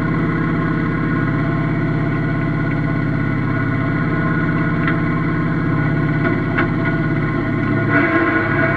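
Yanmar F16D mini tractor's diesel engine running steadily, its note shifting slightly near the end.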